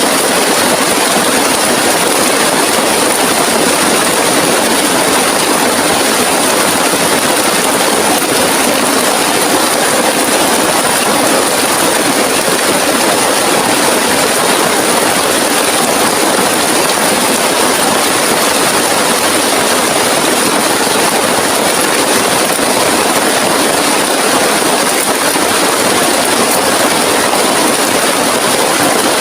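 Heavy rain falling steadily in a loud, unbroken hiss.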